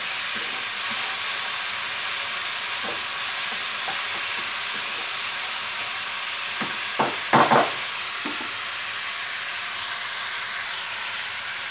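Tamarind-and-tomato masala with a little water sizzling steadily in a nonstick kadai while a wooden spatula stirs it. About seven seconds in, a brief knocking clatter.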